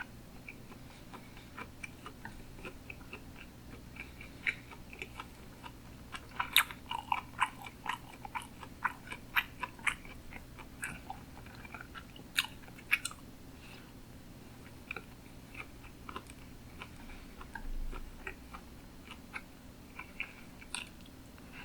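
Close-miked chewing of sushi: a run of short, moist clicks and smacks from the mouth, busiest and loudest in the middle stretch, over a faint steady low hum.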